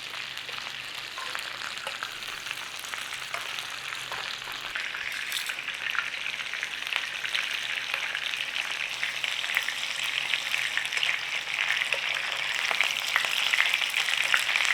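Egg-battered chicken cutlets shallow-frying in olive oil and butter in a pan: a steady sizzle with fine crackling that slowly grows louder.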